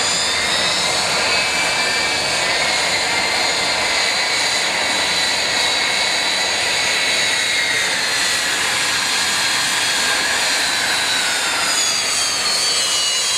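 Aircraft engines running: a steady, loud rush of noise with high whining tones that drift slightly up and down in pitch.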